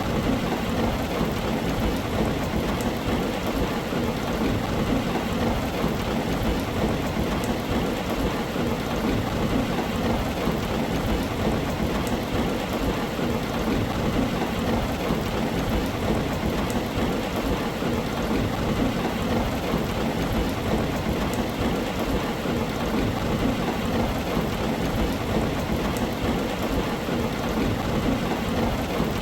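Steady heavy rain falling on a tin roof, an even hiss with a constant low rumble underneath and faint scattered drop ticks.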